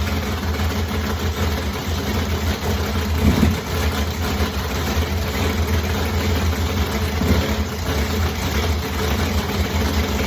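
Supercharged car engine idling steadily, loud and deep.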